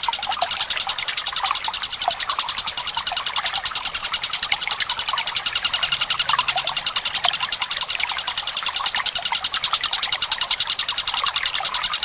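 Tengkek buto bird giving a long, fast, even rattling trill without a break, over gently trickling water.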